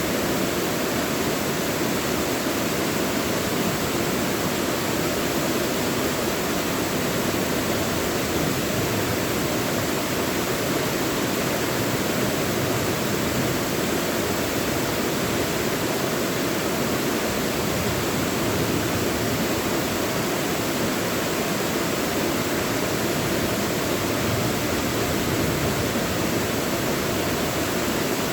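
Mountain valley stream rushing over rocks, a steady full rush of water with no breaks.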